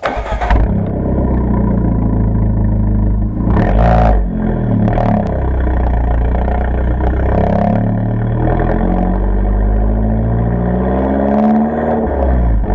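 Abarth 595 Competizione's 1.4-litre turbocharged four-cylinder engine, breathing through a Record Monza exhaust with its valve open and a 200-cell catalyst, revving up and down several times. Short sharp cracks come around four and five seconds in and again near the end.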